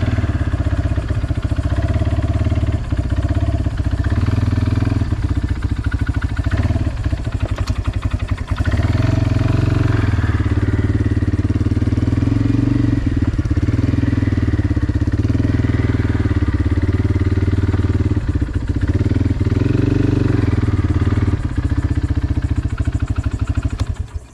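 Kawasaki four-wheeler (ATV) engine running, its revs rising and falling several times as it is driven to move the boat trailer.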